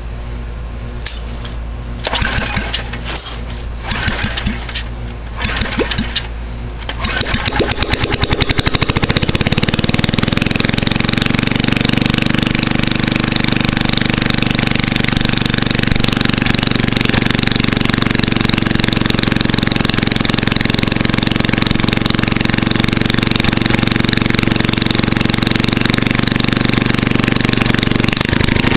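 Modified Tecumseh 5 hp single-cylinder engine running with no muffler and no governor: it idles quietly for about seven seconds, then is throttled up and settles into a loud, steady high-speed run from its open exhaust port.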